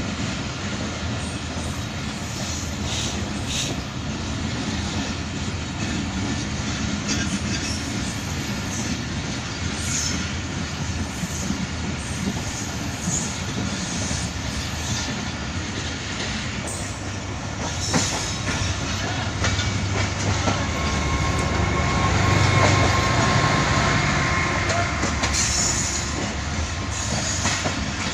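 Passenger train rolling along at speed, heard from inside a moving carriage: a steady rumble of wheels on rails with a few sharp clacks over rail joints. A thin high squeal of the wheels comes in during the second half.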